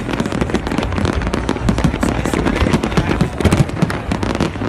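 Fireworks display going off in rapid succession: many overlapping bangs and crackles with no break.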